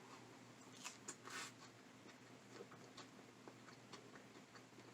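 Near silence with a few faint, scattered clicks and a brief soft rustle about a second in.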